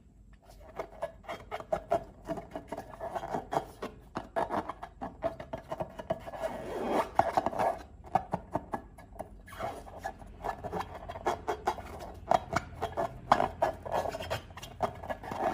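Slime being squeezed and stretched by hand, making quick sticky clicks and pops over a wet rubbing sound, with brief pauses between handfuls.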